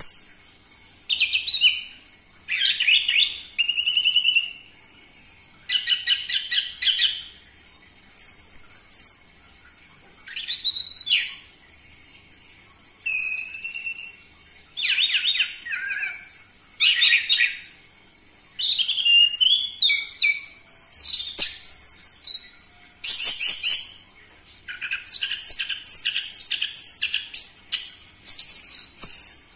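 Orange-headed thrush singing loudly: a varied string of short whistled and chattering phrases, each under a second or so long, with brief pauses between them.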